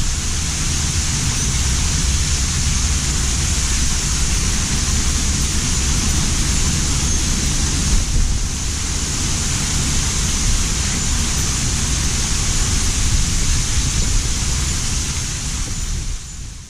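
Severe thunderstorm wind and rain, a steady loud rushing with low rumbling wind buffeting on the microphone; it fades out near the end.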